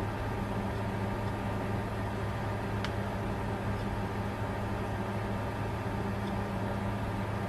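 Bitcoin mining computer running: a steady, even hum of fans and electronics with a low drone. One faint tick about three seconds in.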